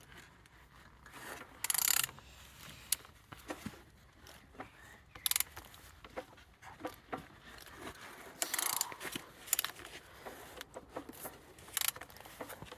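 Used AM340 engine being turned over by hand to check rotation and compression: scattered mechanical clicks and rubbing, with a few short scraping rasps.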